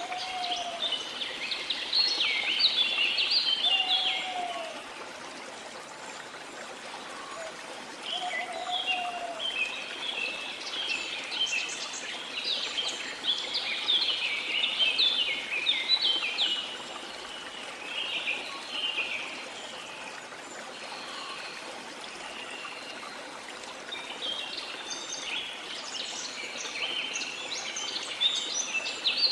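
Small songbirds twittering in bouts of rapid chirps, with short pauses between bouts, over a steady wash of sea water. A few low whistled notes come in the first several seconds.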